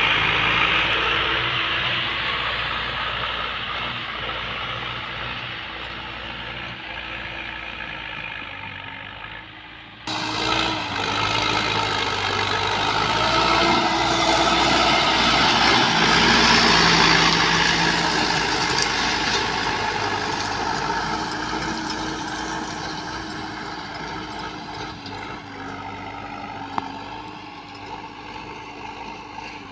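Preet 6049 tractor's 60 HP diesel engine running steadily under load, pulling a plough. An abrupt cut comes about a third of the way in; after it the engine grows louder to a peak just past the middle, then fades as if moving away.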